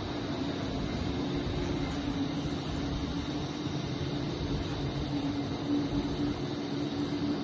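Toyota Wish 1.8X's engine running steadily, a constant hum with no change in revs.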